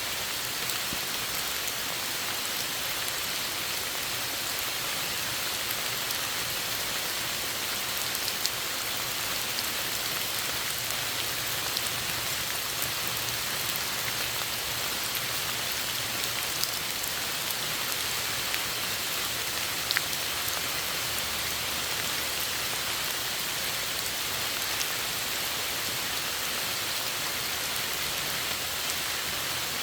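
Steady rain falling, an even hiss, with a few sharper single drops ticking close by now and then.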